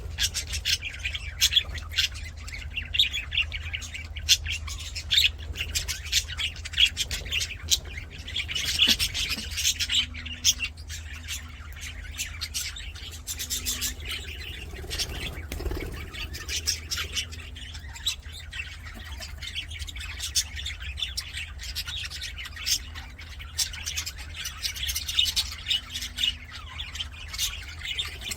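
A flock of budgerigars chattering and warbling, with a continuous stream of quick chirps and squawks.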